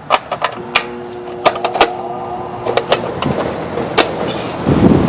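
Clicks and knocks of an A/C disconnect being pushed back in and handled at the outdoor condensing unit, then a steady hum as the unit gets power, with a louder low knock near the end. The compressor does not start: it gives no amp reading, so the technician suspects a bad capacitor.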